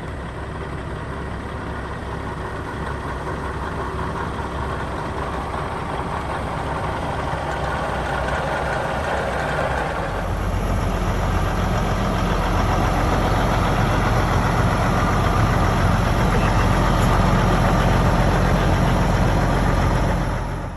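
Diesel semi-truck engine running, growing steadily louder and stepping up in level about halfway through, as the truck comes close.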